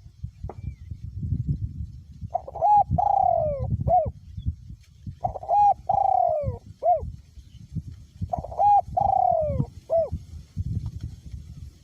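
Male spotted dove cooing: three phrases about three seconds apart, each a couple of short coos, a longer falling coo and a short closing coo. A low rumble of wind on the microphone runs underneath.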